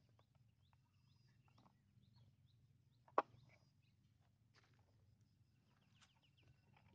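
Near silence with faint, scattered bird chirps and a single sharp click about three seconds in.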